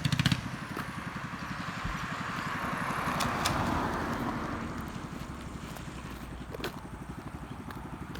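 Mini bike's small engine running with a rapid low putter as the bike rides past, growing louder to a peak about three and a half seconds in, then fading. A short loud noise comes right at the start.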